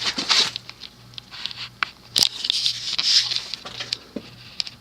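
Emerson ceiling fan's KB55 stack motor running on low speed: a low hum that pulses at an even, rhythmic rate, with a few light clicks and brief rustling noises over it.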